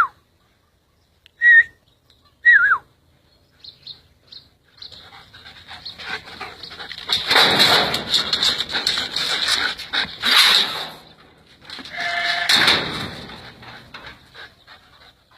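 Puppies give three short yelps, each falling in pitch, then several seconds of loud scuffling and rustling noise that swells and fades a few times, with one more brief whine near the end.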